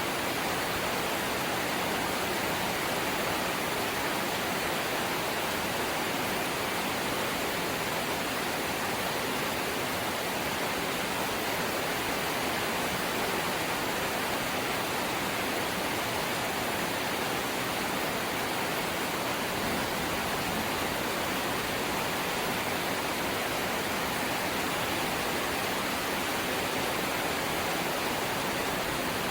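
Steady rain falling on a corrugated zinc roof, an even hiss without breaks or separate drops standing out.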